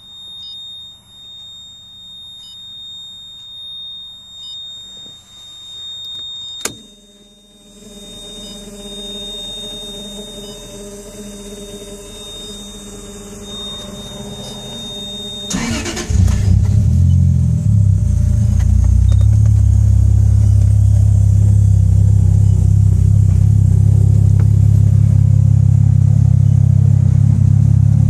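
A steady high-pitched electronic beep, cut by a sharp click about seven seconds in, then a low hum. About fifteen seconds in, the 1995 Toyota Supra's twin-turbo straight-six cranks, catches and settles into a loud, steady idle.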